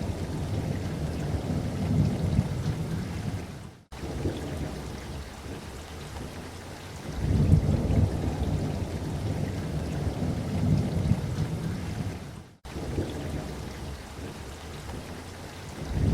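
Steady rain with rolling thunder, the low rumble swelling at the start and again for several seconds in the middle. The sound cuts out for an instant twice, at about 4 seconds and near 12.5 seconds.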